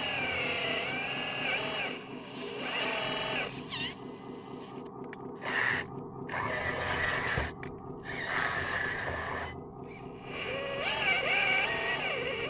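Electric motors and gearing of an RC construction model running, a steady hum with a whine that rises and falls in pitch as it is throttled. In the middle come several short bursts of gritty noise.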